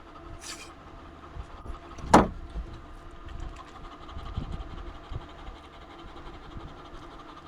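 A steady motor hum, with one sharp knock about two seconds in.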